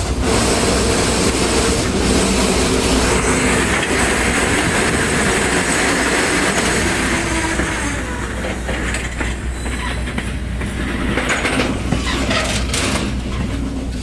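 Train rolling on the rails, heard from aboard: a steady loud rumble of wheels with squealing tones through the first half, easing a little about eight seconds in, then scattered clicks of the wheels over the track.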